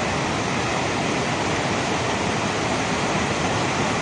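Water from an overflowing lake rushing in a steady, unbroken torrent.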